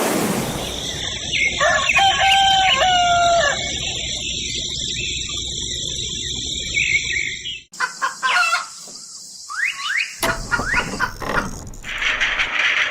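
A rooster crowing once, a stepped, pitched call about one and a half seconds in, over a steady hiss; later come several shorter, rising bird calls.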